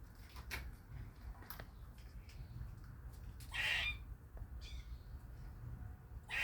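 Squirrel calling with harsh, bird-like squawks: a few short faint calls, then a louder rasping call about three and a half seconds in and another at the very end.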